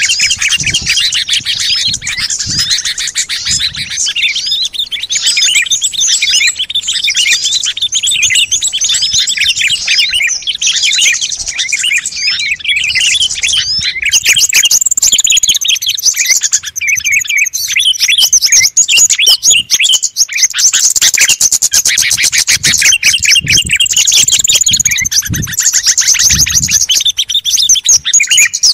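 A dense chorus of many small songbirds chirping and trilling rapidly over one another, a bird-lure (pikat) recording meant to draw small wild birds in. It grows a little louder about halfway through.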